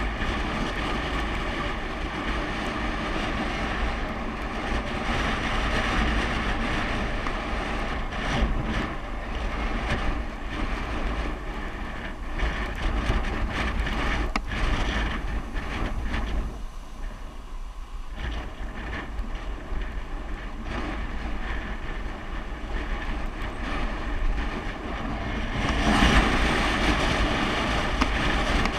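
Wind buffeting the microphone on a moving bicycle ride downhill: a steady rushing noise with a deep rumble, easing briefly about two thirds of the way through.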